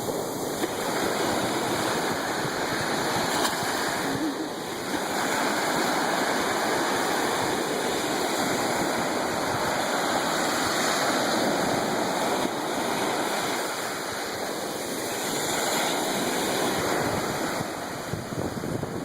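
Ocean surf: a steady rushing wash of waves that eases briefly a couple of times.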